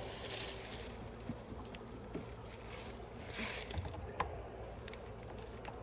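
Wooden beehive frames being handled during an inspection, with a few light clicks and knocks and two short hissing rushes, one near the start and one about halfway through.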